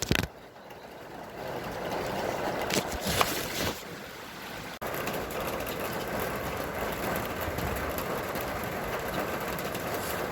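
Steady rain hiss, preceded by a few knocks in the first seconds, with an abrupt break about five seconds in where the recording changes.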